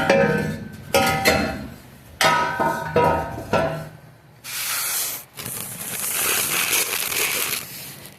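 Cut-off steel exhaust pipe clanking as it is worked free from under a truck: four sharp metallic hits about a second apart, each ringing briefly. Then a few seconds of scraping noise.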